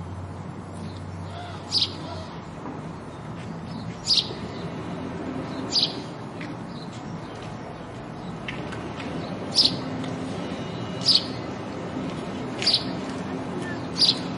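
House sparrow chirping: seven short, sharp chirps, one every second or two, over a steady background noise.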